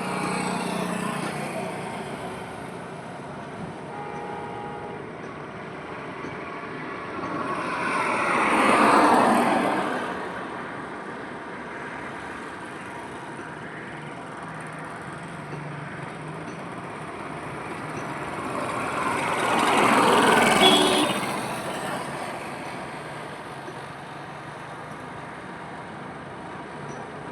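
Highway traffic: steady road noise, with two vehicles passing close. Each swells up, peaks and fades, the first about nine seconds in and the second about twenty seconds in.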